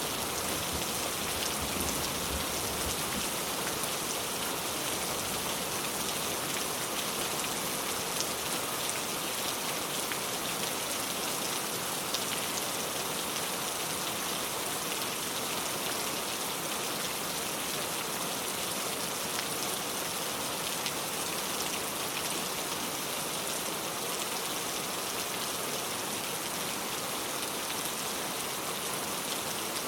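Steady rain falling, an even hiss with fine pattering drops. The last of a low thunder rumble fades out in the first two seconds.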